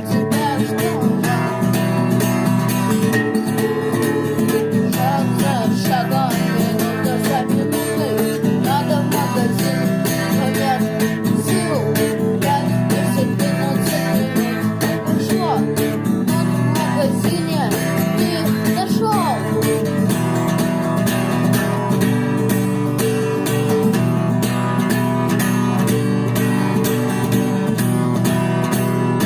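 Instrumental passage of a rock song: electric and acoustic guitars and bass over a drum machine beat, with a lead guitar line that bends in pitch.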